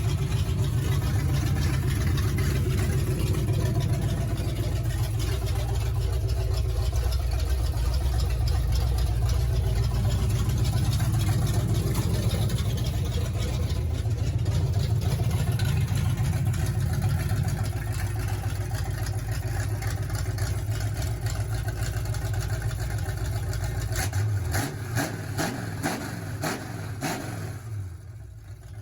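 Ford 351 Windsor small-block V8 running with open headers, a steady deep idle rumble. About three-quarters of the way through the deepest rumble drops away, a few sharp clicks sound, and it grows quieter near the end.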